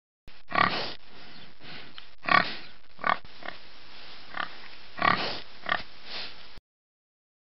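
Domestic pigs grunting, about eight short calls over a steady background hiss, which cuts off abruptly near the end.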